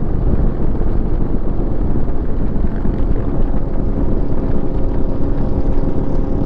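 Motorcycle engines idling, a steady low rumble; a steadier engine note comes in about halfway through.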